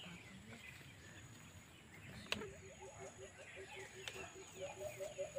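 A sharp click about two seconds in, then a rapid series of low hooting bird calls, about six a second, with a second, higher and louder series of hoots joining near the end; faint bird chirps behind.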